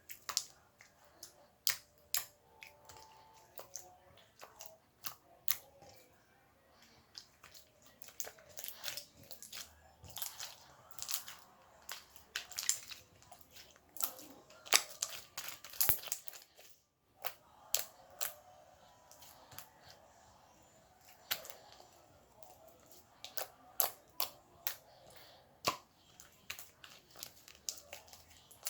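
Slime being pressed and stretched by hand, giving irregular sharp clicks and pops, a few a second and bunched in clusters, with a brief pause about halfway through.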